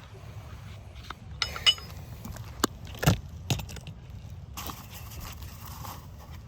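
Hand-nailing asphalt roof shingles: a few metallic clinks about one and a half seconds in, then three hammer knocks about half a second apart, over a steady low rumble.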